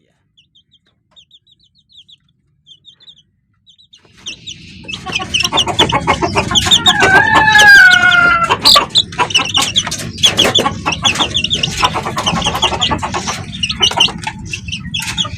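Chickens in a coop: at first only faint peeps from the chicks, then from about four seconds in loud clucking and calling from the adult birds over a steady rumble, including one long drawn-out call.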